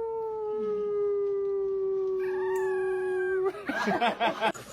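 A pet's long drawn-out howl: one held note, sliding slightly lower, for about three and a half seconds, then breaking into a quick wavering warble near the end.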